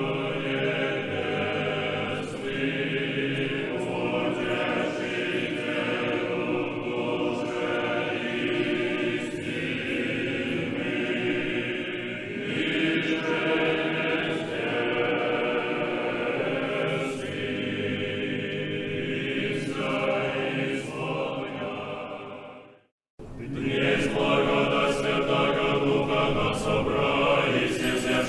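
Church choir singing a slow, sustained chant. It breaks off about 23 seconds in, and after a moment of silence a chant starts again.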